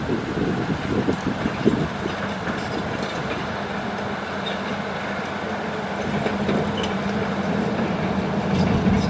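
Hitachi hydraulic excavator's diesel engine working steadily under load, its hum growing louder over the last few seconds, with a few knocks about a second in.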